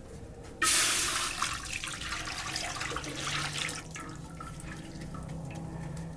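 Water being poured, starting suddenly about half a second in with a loud splash, then running on and tapering off after about three seconds.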